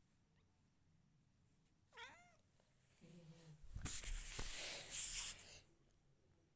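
A cat meowing: a short call with bending pitch about two seconds in, followed by a louder, rougher noisy sound lasting nearly two seconds.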